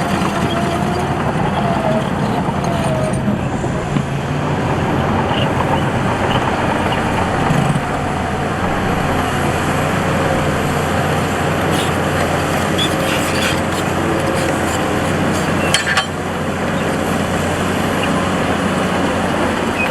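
Heavy diesel earthmoving machinery running steadily under work, with a sharp metallic knock about 16 seconds in.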